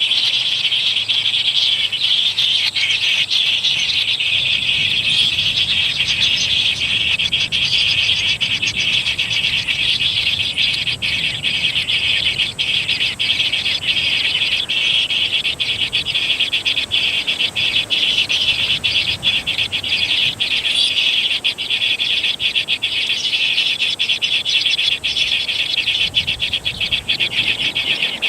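Dense, steady chorus of trilling insects, a loud continuous buzz of rapid pulses.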